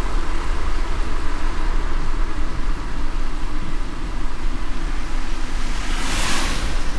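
Car driving in light rain: a steady low road rumble under an even hiss of rain and tyres on wet road, with a brief swelling whoosh about six seconds in.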